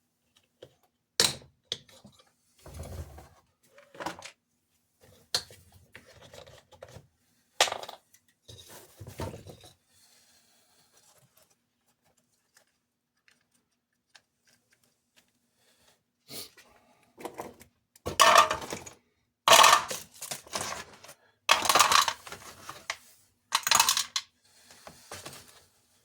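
Small parts and tools being handled on a workbench: scattered clicks and clatters, then a quiet spell, then a run of longer, louder bursts of noise in the last third.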